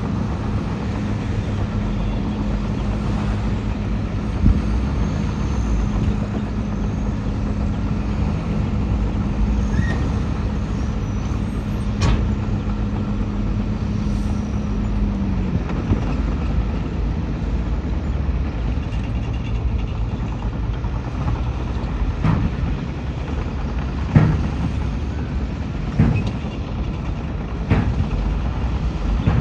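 Heavy diesel earth-moving machinery running steadily, its steady engine note fading out about halfway through, with several sharp metallic clanks in the second half.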